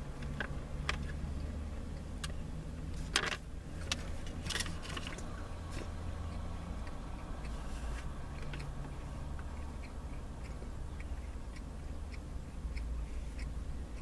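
A man chewing beef jerky, with faint wet mouth clicks scattered through, over the steady low hum of a car cabin. The sharpest clicks come about three and four and a half seconds in.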